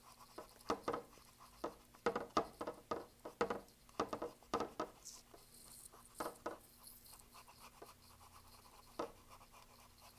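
Small flat or filbert paintbrush scrubbing acrylic paint onto a canvas: quick, irregular scratchy strokes in runs, thinning out near the end.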